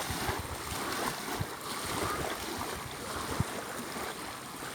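Sea waves washing against the shore in a steady rush, with scattered low thumps of wind buffeting the microphone.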